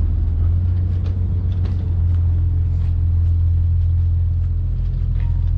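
High-speed passenger boat's engines running steadily, a deep, even rumble.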